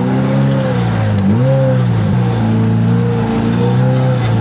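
Side-by-side UTV engine running at fairly steady revs, dipping and picking back up in pitch a couple of times in the first half.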